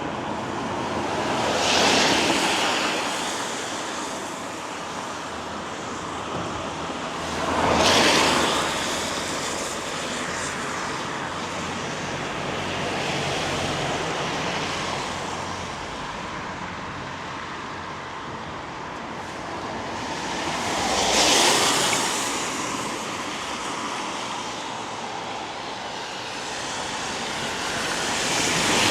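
Cars passing on a wet road: four rising-and-falling tyre hisses, coming about 2, 8, 21 and 29 seconds in, over a steady background hiss of light rain.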